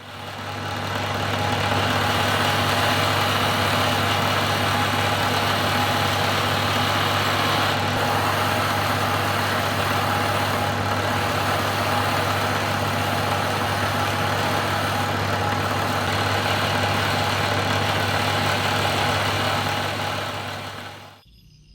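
A machine running steadily, with a strong low hum under a hiss. It fades in at the start and fades out near the end.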